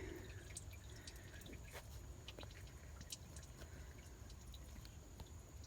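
Engine oil dripping faintly and irregularly from the opened oil filter housing into a drain pan.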